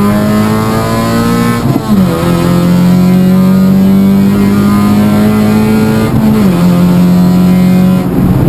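Toyota Yaris Cup race car's four-cylinder engine pulling hard, heard from inside the cabin: its pitch climbs steadily, drops sharply with an upshift about two seconds in, climbs again, and drops with another upshift about six seconds in.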